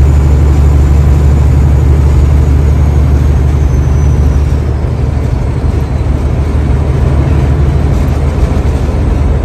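Semi truck's diesel engine running with a steady low drone, dipping slightly in level about halfway through.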